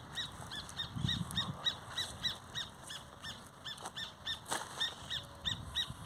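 A bird calling over and over: short repeated notes at about three a second. A brief low rumble about a second in, and a single sharp click past the middle.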